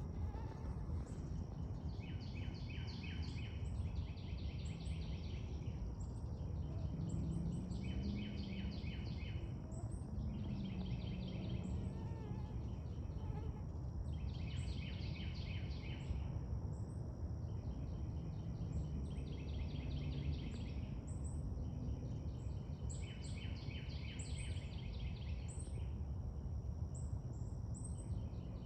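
Night insects calling: pulsed trills in bursts of about two seconds, repeating every few seconds, with short high chirps in between, over a steady low rumble of background noise.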